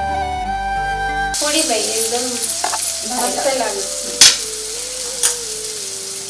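Flute music for about the first second and a half, then an onion-and-tomato masala sizzling in a kadhai as a metal spatula stirs and scrapes it. A sharp clank of the spatula on the pan comes about four seconds in, the loudest sound, with a lighter one a second later.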